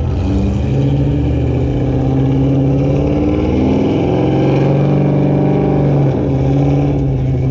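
Chevrolet Corvette Z06's V8 running hard on a chassis dyno, its pitch climbing through a pull, then dropping back about six seconds in.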